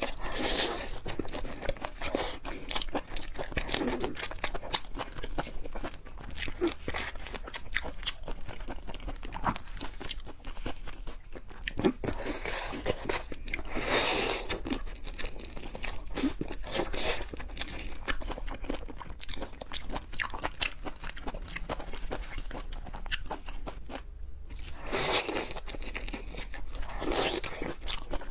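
Close-miked eating of shrimp and crab: steady wet chewing with frequent crisp crunches and clicks, louder crunching bursts every few seconds.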